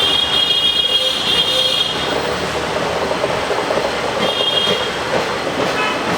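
Locomotive horn sounding in high-pitched blasts, one of about two seconds and a shorter one about four seconds in, over the steady running noise of a passing train.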